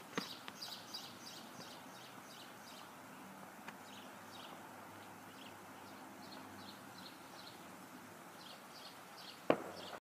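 A songbird chirping repeatedly: a quick run of short, high, slightly falling notes in the first two seconds, then slower, spaced chirps. A sharp knock comes just after the start, and a louder one near the end.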